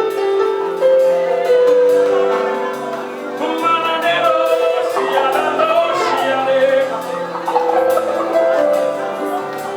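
Live gospel praise music: a band playing sustained chords over a steady beat, with a singing voice rising and wavering over it about halfway through.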